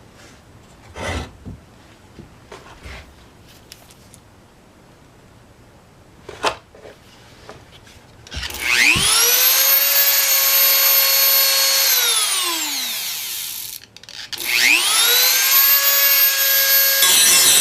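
Dremel 4000 rotary tool starting with a rising whine, running steadily, winding down and stopping, then starting up again; near the end its bit begins grinding against a tool's metal edge as it is sharpened. A few light knocks from handling come before the motor starts.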